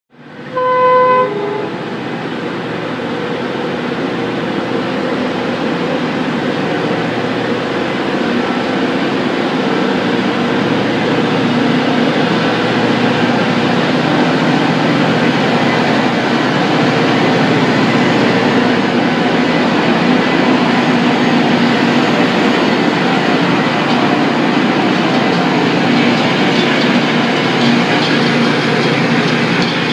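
Rail grinding train working along the track, its grinding stones against the rails making a loud, steady, dense rushing noise over a low hum that builds over the first ten seconds or so. A short horn blast sounds about a second in.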